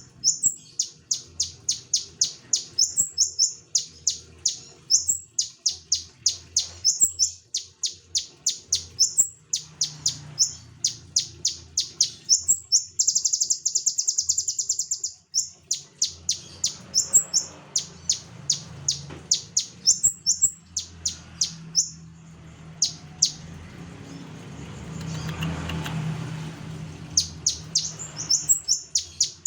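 Konin songbird singing vigorously: sharp, high chirps repeated about three to four a second, broken once by a quick trill. There is a pause in the song with a low background rumble before the chirping picks up again near the end.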